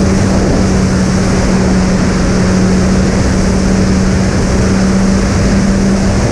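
Twin electric motors and propellers of a fixed-wing model plane at a steady cruise: one unchanging hum under a constant rush of wind noise.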